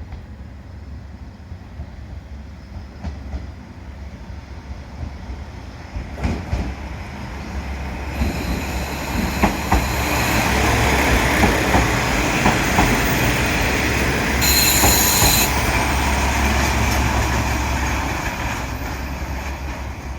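KiHa 48 diesel railcar arriving at a station platform: a low engine rumble and wheel noise building up about six seconds in, with wheel clicks over the rail joints and a brief high squeal around fourteen seconds in as it brakes.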